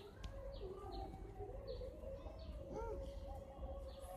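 Birds calling: several short, high chirps, each falling in pitch, with lower wavering calls and a low rumble underneath.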